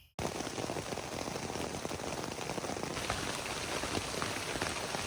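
Hard rain pattering on a tarp shelter, a dense, steady crackle of drops that starts abruptly just after the beginning.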